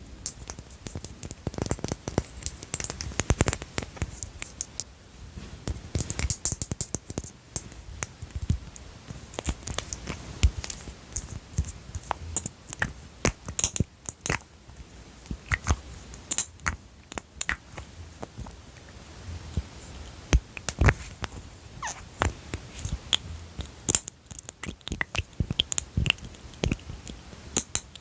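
Close-miked ASMR tapping and handling of small objects: fingertips and nails tapping and clattering them in many quick, irregular taps.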